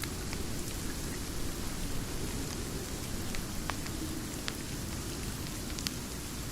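Steady rain with a wood fire crackling: a constant even rush of rain with a few scattered sharp pops from the fire.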